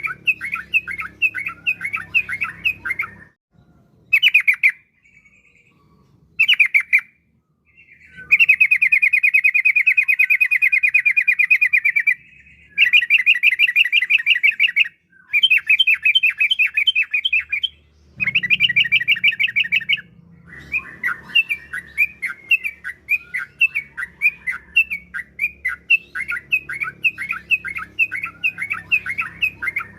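Yellow-vented bulbul (trucukan) singing in fast runs of sharp repeated notes broken by short pauses. Several long rapid trills come in the middle, and looser chattering phrases follow near the end.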